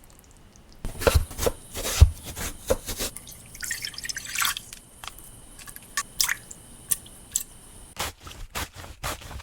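Kitchen food-prep sounds: a run of irregular sharp clicks and knocks, wet-sounding, starting about a second in, with a short splashy, noisy stretch near the middle.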